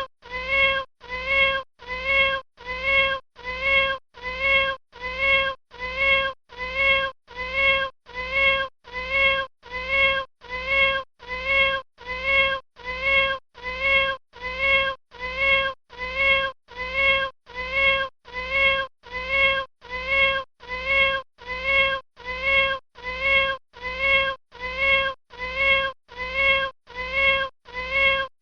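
A kitten meowing: the same short, high meow repeated over and over at perfectly even spacing, a little faster than once a second, each call identical like a looped recording.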